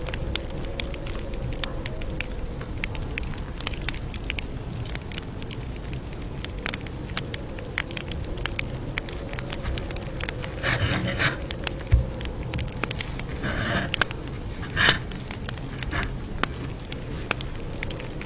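Campfire crackling with many small irregular pops over a low rumble, and a few louder short hissing bursts about halfway through.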